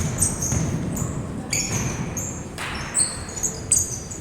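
Sneakers squeaking in short, high-pitched chirps on a court floor during a game, with a few sharp knocks, over the hum of a large hall.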